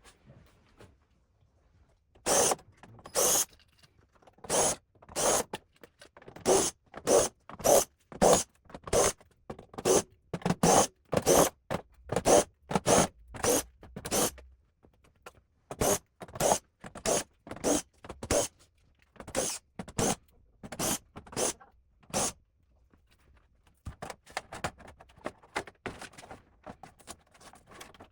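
Short scrapes and clicks, one or two a second, from tools and hands working on a flat-screen TV's plastic back cover as it is being opened, with fainter handling noise near the end.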